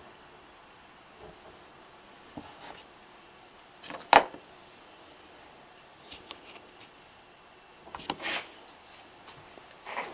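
Sparse handling sounds of objects being picked up and set down on a workbench: a few soft knocks and rustles, with one sharp click about four seconds in and a brief rustle near eight seconds.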